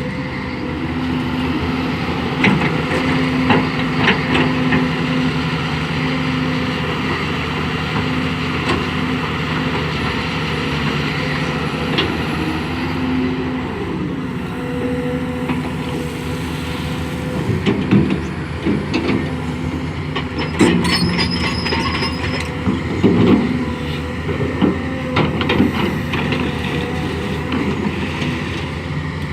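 Hydraulic excavator's diesel engine running steadily under work, its pitch shifting now and then, with scattered metal clanks and knocks that come more often in the second half.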